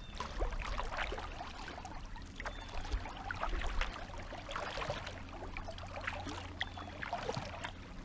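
Kayak paddling on a creek: irregular splashes and water dripping and trickling off the paddle blades, over a steady low rumble.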